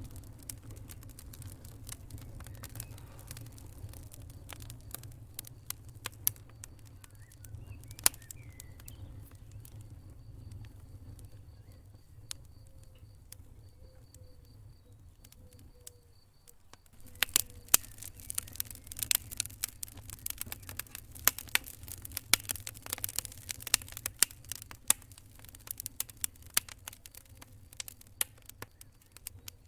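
Wood fire crackling over a low rumble, with sparse snaps at first, a short lull a little past halfway, then dense, sharp pops and crackles.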